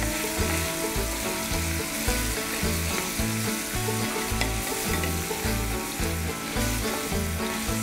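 Shrimp sizzling as they fry in garlic oil in a stainless steel pan, stirred with a wooden spatula. Background music with a steady bass beat plays under the sizzle.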